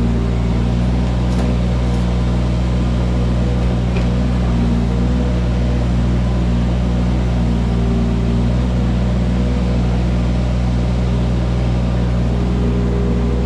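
Mini excavator's engine running at a constant speed: a steady low drone with no rise or fall in revs.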